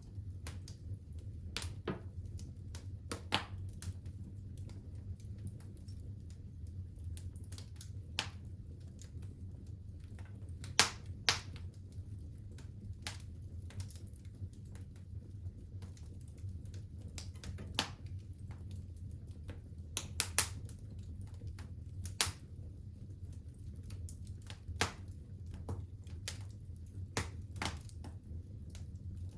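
Wood fire crackling in a fireplace: irregular sharp pops and snaps over a steady low rumble, with a few pops much louder than the rest.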